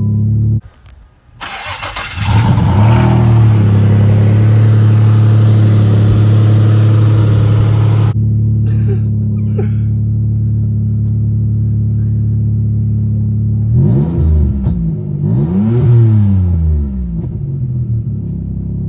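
Turbocharged Nissan Maxima engine: it stops briefly, starts again and runs loud with a hiss for several seconds, then settles to a steady idle with a few quick revs near the end.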